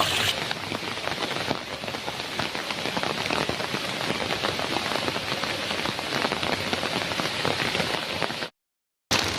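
Heavy rain pattering densely on a metal roof. The sound cuts out to silence for about half a second near the end, then comes back.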